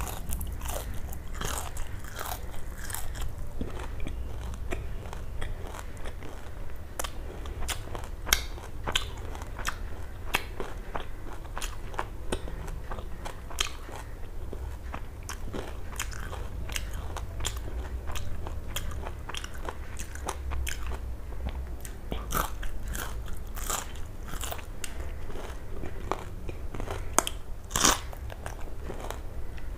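Close-up chewing and biting of crispy fried small fish, with many irregular crisp crunches, over a low steady hum.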